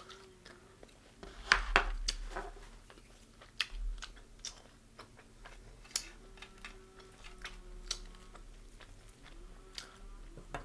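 Close-up eating of crispy deep-fried chicken: scattered crunches and clicks of biting and chewing, the loudest cluster about a second and a half in.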